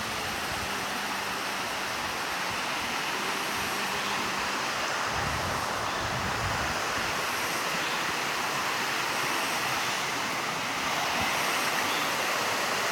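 Mountain valley stream rushing steadily over rocks, getting slightly louder near the end.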